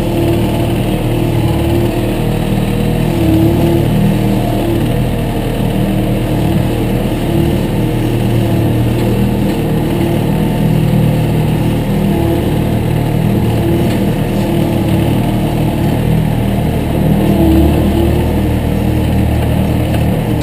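Engine of a piece of heavy equipment running steadily.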